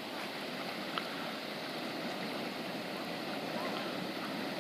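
Steady outdoor noise of wind and lapping water, with a single short click about a second in.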